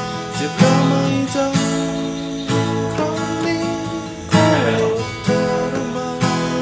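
Music: acoustic guitar strumming chords, with a fresh strum and chord change about once a second.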